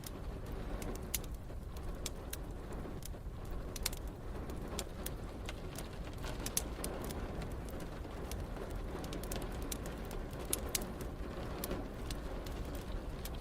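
Wood fire crackling in a fireplace, with sharp pops scattered irregularly over a steady low rumbling background.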